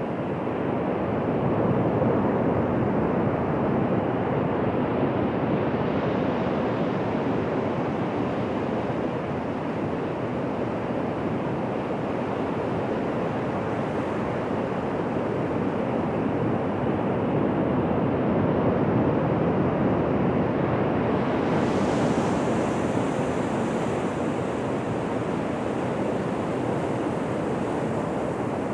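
Ocean surf washing on a beach: a continuous rushing noise of waves that swells and eases gently, with no single sharp crash standing out.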